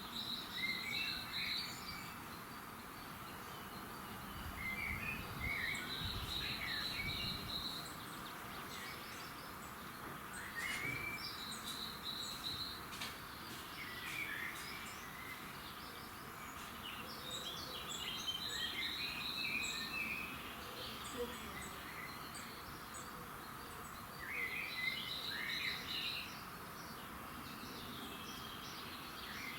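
Birds singing at dawn: a high, rapid trill that comes back every five or six seconds, mixed with shorter chirping notes, over a steady background hiss.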